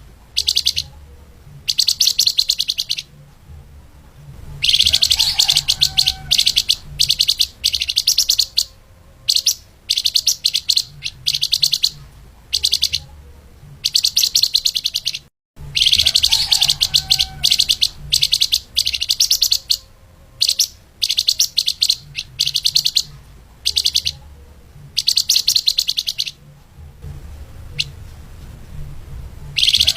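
Flamboyan (lemahan) songbird singing in rapid, tightly packed bursts of high chirps, each burst lasting one to a few seconds with short pauses between. The song cuts out for a moment about halfway through, then the same sequence starts again.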